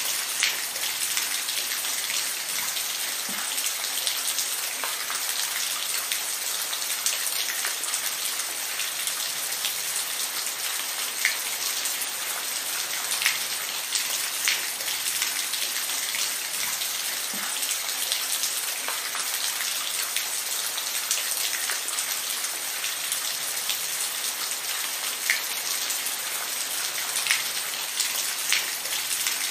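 Steady rain falling, an even hiss with scattered sharper drip-like ticks of individual drops landing close by.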